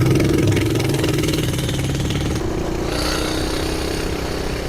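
Coleman BT200X mini bike's single-cylinder four-stroke engine running hard through a straight pipe at high speed, its note held steady and easing slightly about halfway through.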